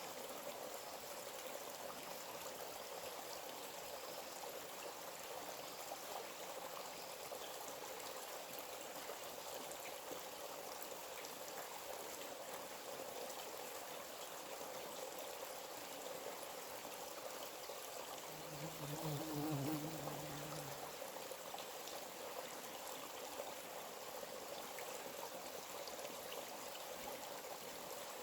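A forest stream running steadily with an even rushing sound. About two-thirds through, a brief low hum rises over it for a couple of seconds.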